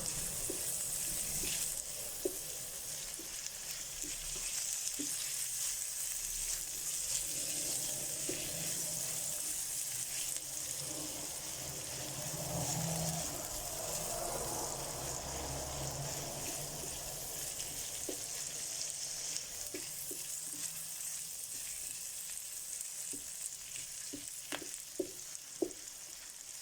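Chopped onion sizzling steadily in olive oil in a frying pan as it caramelizes, with a few light clicks from stirring, more of them near the end.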